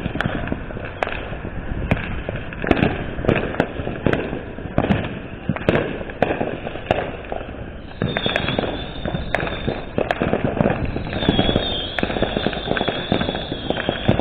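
Consumer fireworks and firecrackers going off all around in a fast, irregular string of sharp pops and bangs. From about halfway a high, wavering whistle joins in.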